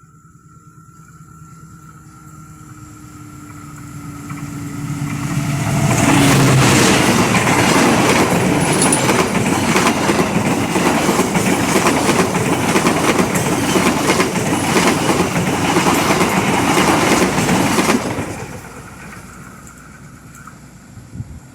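A train passing close: its sound swells for about six seconds as it approaches, then about twelve seconds of loud rolling noise with steady clicking of wheels over the rail joints. The sound drops off sharply as the end of the train goes by and then fades away.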